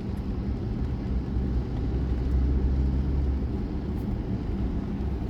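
Car engine and road noise heard from inside the cabin: a steady low rumble with a faint hum that swells slightly partway through.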